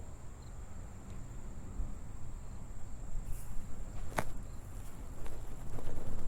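Wind buffeting the microphone as a low, uneven rumble, with a thin steady high-pitched tone behind it and a sharp click about four seconds in.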